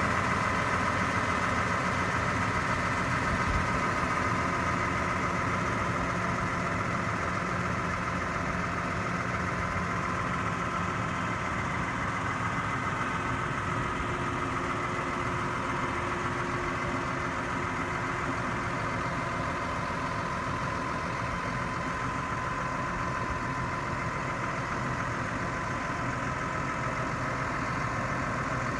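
New Holland T6.180 tractor's diesel engine idling steadily, with a steady whine over the engine note.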